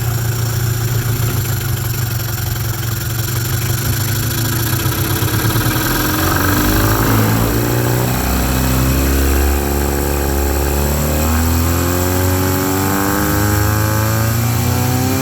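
1997–98 Mercury 15 hp two-stroke outboard running in a test tank: it idles steadily, then after about seven seconds its note deepens and begins to climb slowly as it is put in gear and throttled up gently. The engine speed rises smoothly, without the bog under throttle in gear that the customer reported.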